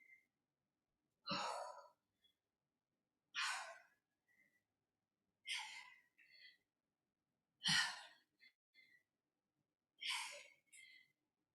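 A woman's sharp, breathy exhalations, five of them about two seconds apart, one with each rep of weighted sumo squats.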